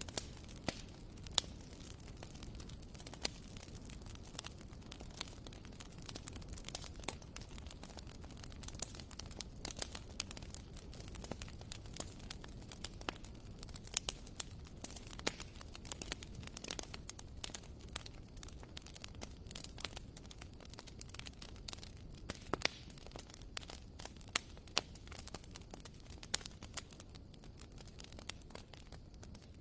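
Wood fire crackling in a fireplace: irregular sharp pops and snaps over a steady low hiss of the burning logs.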